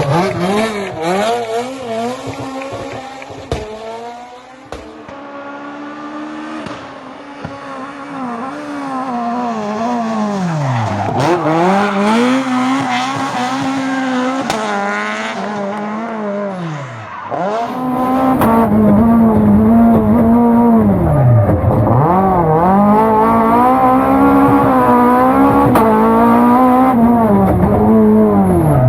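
Fiat 131 Abarth rally car's twin-cam four-cylinder engine driven hard, its revs climbing and dropping again and again with gear changes and lifts. It gets louder about two-thirds in, with the rev swings coming every couple of seconds.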